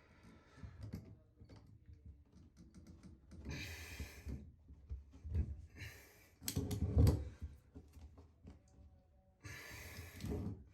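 Irregular small clicks and scrapes of vise-grip pliers working against a shower floor drain, pressing it down to free the old drain seal, with several breaths of effort between, the loudest about seven seconds in.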